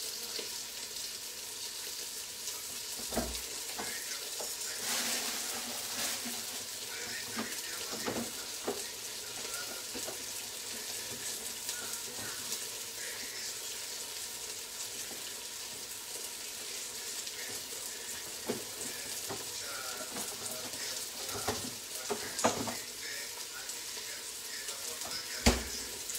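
Steady sizzling of gurnard heads and vegetables browning in hot oil in a pot, with a few sharp knocks, the loudest near the end.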